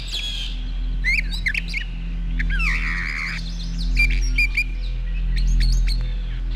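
Brown thrasher singing a run of varied, repeated phrases, broken into by a blue jay's harsh, discordant cry a little under three seconds in. A low steady hum runs underneath.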